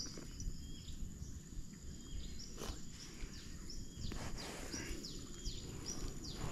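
A bird calling a run of short, high, falling notes, coming two or three a second in the second half, over a thin steady high tone; a brief rustle or click about three seconds in.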